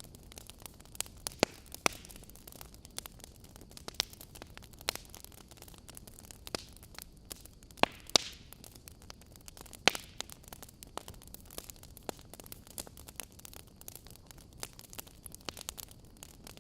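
Fireplace fire crackling: irregular sharp pops and snaps over a soft hiss, with a brief louder hissing flare about halfway through.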